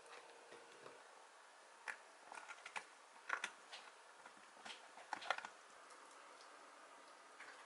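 A few scattered light clicks and taps, in small clusters, over a faint steady background.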